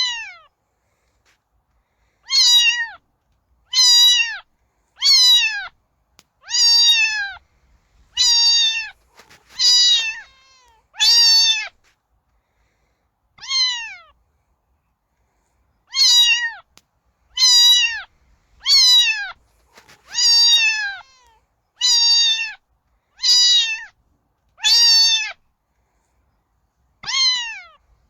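A domestic cat meowing over and over: about sixteen high meows, each under a second and falling in pitch, repeated roughly every second and a half, with a longer pause about halfway through.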